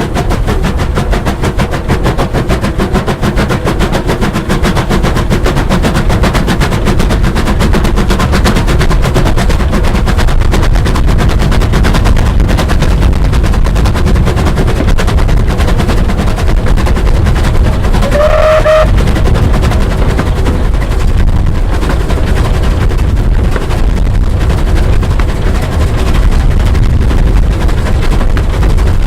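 Bulleid steam locomotive working hard, its exhaust beats coming in a rapid stream over a heavy rumble. About 18 seconds in, a short whistle sounds.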